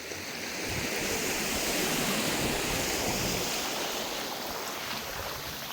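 Sea waves washing up on a beach: one surge of water that swells over the first couple of seconds and then slowly fades away.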